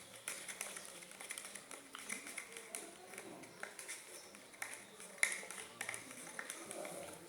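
Homemade slime of styrofoam glue and water being stirred: irregular sticky clicks and taps, one louder click about five seconds in.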